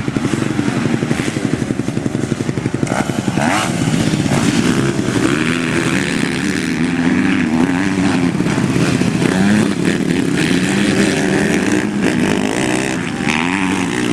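Motocross dirt bike engine running loud, pulsing steadily at first, then revving up and down repeatedly from about four seconds in.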